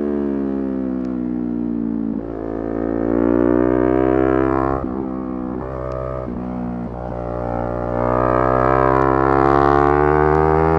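Yamaha R3 parallel-twin motorcycle engine revving high while riding. The note falls for about two seconds, then climbs under throttle, with several brief breaks in the middle where it shifts gear, and rises again near the end.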